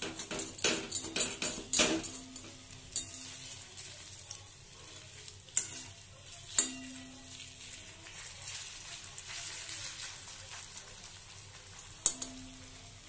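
Rice-flour-battered pointed gourd leaf fritters sizzling as they fry in oil in a metal kadai. A spatula scrapes and knocks against the pan, several times in the first two seconds, then a few single knocks further on, one near the end.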